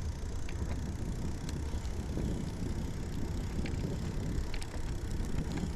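Wind buffeting the microphone and tyre rumble from a Riese & Muller Roadster e-bike rolling along at riding speed, with a few faint clicks.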